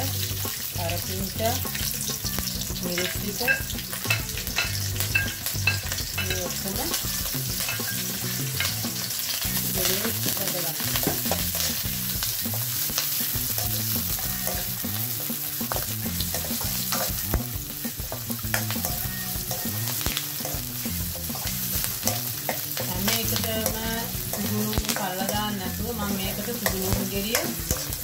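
Sliced onion, garlic, curry leaves and green chillies sizzling in hot oil in an aluminium wok, stirred with a long-handled ladle that scrapes and clicks against the metal.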